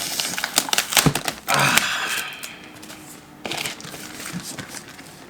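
Shipping packaging being handled: crinkling and rustling with scattered sharp clicks and taps, loudest in a burst of rustling a second or two in.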